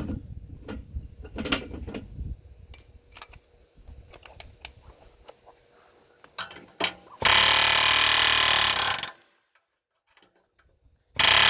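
Clicks and knocks as a chisel is fitted into a long-stroke pneumatic air hammer, then the air hammer running hard on a truck frame rivet in a loud burst of about two seconds. It stops suddenly and starts again near the end.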